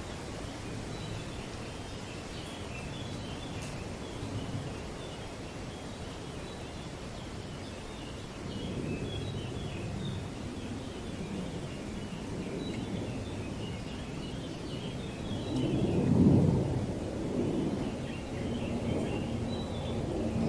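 Wind gusting through trees and buffeting the microphone: a low rumble that swells and falls in gusts, loudest about three-quarters of the way through. Faint high chirping runs underneath.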